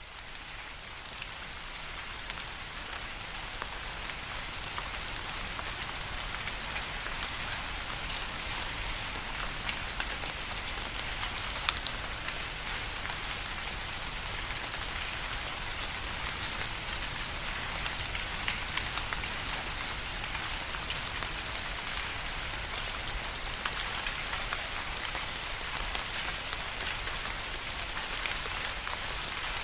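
Steady rain falling, with many separate drops ticking close by over the hiss of the downpour. It fades in over the first few seconds, then stays even.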